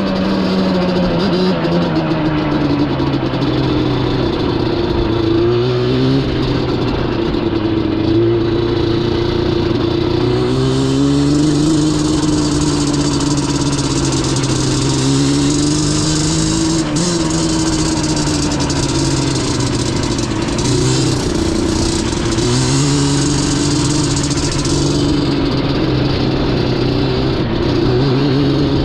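Yamaha Banshee's twin-cylinder two-stroke engine running under a rider, its pitch rising and falling as the throttle is worked. A hiss rides over it through the middle stretch.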